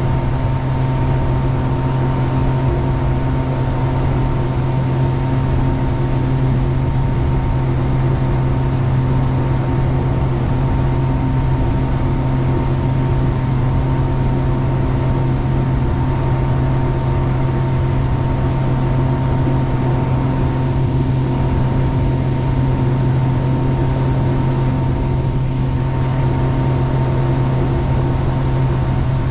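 Jet boat engine running steadily at cruise, a constant low drone over a steady rushing noise.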